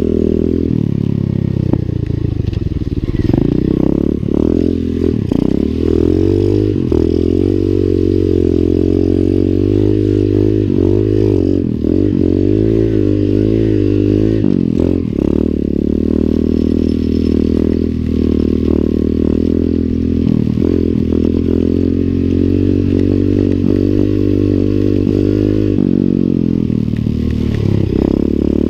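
Lifan 125 cc single-cylinder four-stroke pit bike engine being ridden, its pitch rising and falling over and over as the throttle opens and closes, with scattered short clatters.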